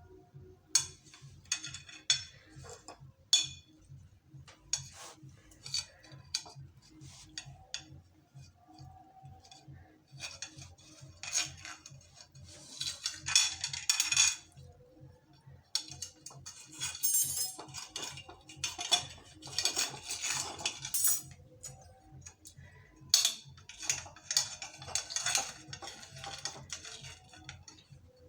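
Metal utensils and dishes clinking and clattering as they are handled, with a few longer stretches of scraping or rustling.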